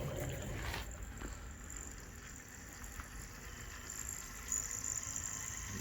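Model Power 0-4-0 Fatboy model steam locomotive running along its track pulling two carriages: a steady low rumble of the motor and wheels on the rails, with a faint high whine that grows a little louder about three-quarters through.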